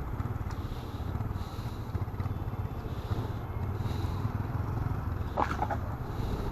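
Motorcycle engine running steadily on the move, with wind noise over the microphone.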